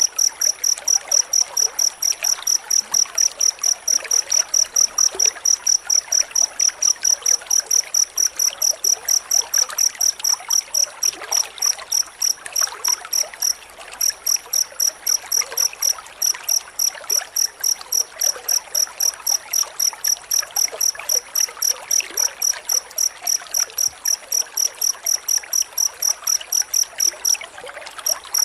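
Cricket chirping in a dense, fast, even run of high pulses, several a second, over a steady background hiss. The chirping breaks off briefly about halfway through and again near the end.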